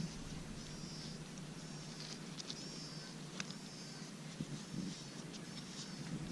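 A bird calling: short, high, arched chirps repeated every half second to a second, with a few sharp clicks between them.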